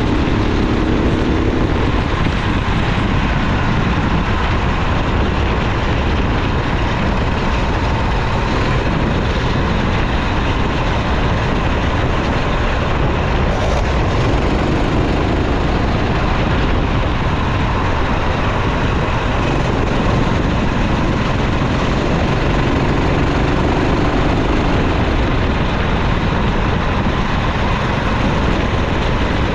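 Kart engine running on track, its pitch rising and falling a little, under a steady loud rush of wind noise.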